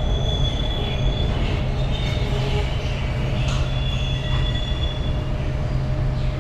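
Train wheels squealing on the rails over a steady low rumble as the express pulls out of the station at low speed. The high squeal comes and goes in stretches of about a second.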